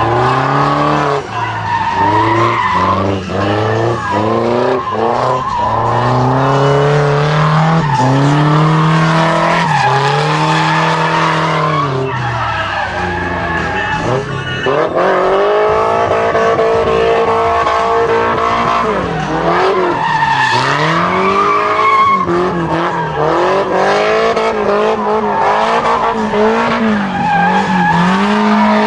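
Car engine revving up and down repeatedly under hard throttle as it drifts, with tyres squealing and skidding.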